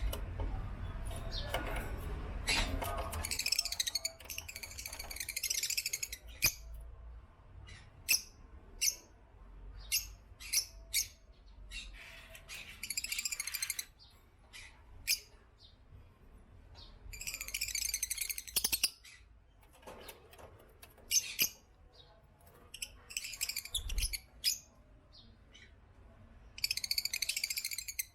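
Lovebirds calling: sharp single chirps scattered throughout, with four bursts of rapid, high-pitched chattering, each a second or two long.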